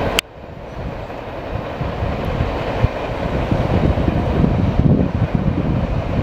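Tail end of a freight train rolling away on the rails, a low, uneven rumble that builds again after a sharp click just after the start.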